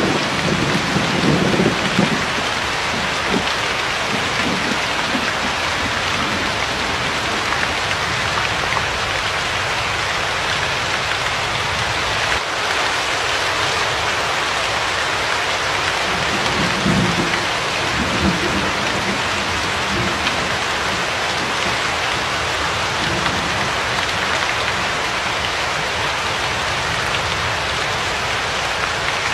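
Steady rain falling, with low rolls of thunder rumbling at the start and again about halfway through.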